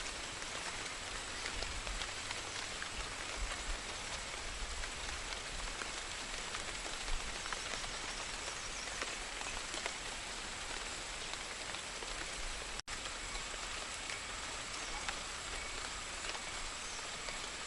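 Steady rain falling, an even hiss of many drops, with a faint low rumble underneath. The sound cuts out for an instant about thirteen seconds in.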